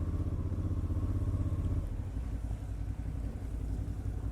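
A motorcycle engine running steadily while riding.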